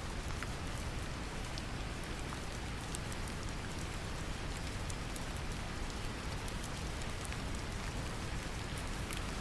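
Steady deep brown noise mixed with a gentle rain recording, with scattered light drop ticks over the even low rumble.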